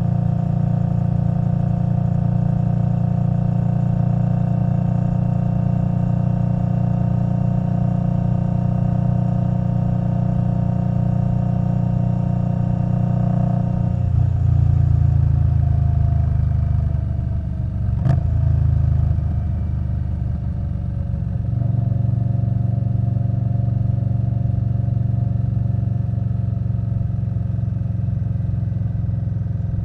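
Indian Scout Bobber Twenty's V-twin engine through Vance & Hines Twin Slash exhausts running steadily while riding. About 14 seconds in, the note changes and falls as the bike slows, with a sharp click about 18 seconds in. It then settles into a steady run again.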